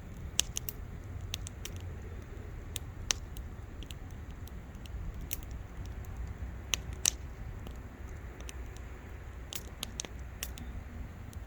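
Wood fire crackling: irregular sharp pops and snaps, a few much louder than the rest, over a low steady rumble.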